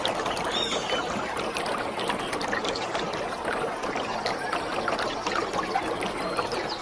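Waterfall: a steady rush of falling water, with scattered short high chirps over it.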